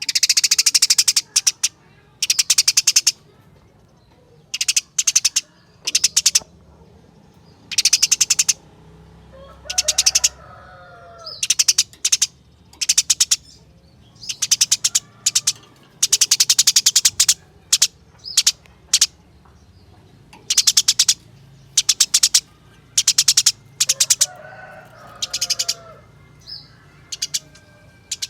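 Eurasian tree sparrow in its excited 'fighting' song, giving fast trilled chirp bursts over and over, each under a second or two long, with short gaps between. A lower warbling phrase comes in twice, about a third of the way through and again near the end.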